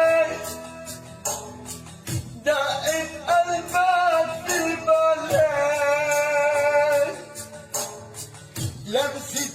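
A man singing an Arabic song in long, held, slightly wavering notes over musical accompaniment with regular percussion hits.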